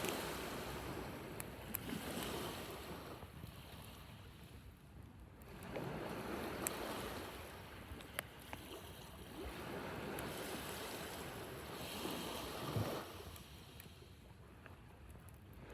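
Sea waves breaking on a beach, each wash swelling and fading away about every six seconds. A few sharp crackles stand out over the surf.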